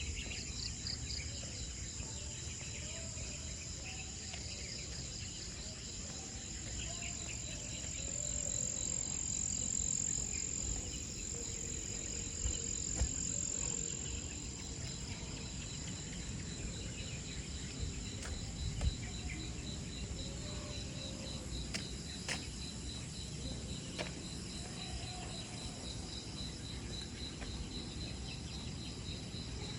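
Insects chirring steadily in a high, evenly pulsing trill, with a still higher buzz swelling up about a third of the way in and fading. A few soft knocks and a low rumble lie under it.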